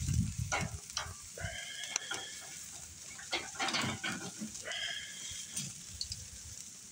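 Meat sizzling over an open wood fire, with irregular crackles. Twice, about a second and a half in and again near five seconds, a short, wavering, high-pitched call sounds from an unidentified source.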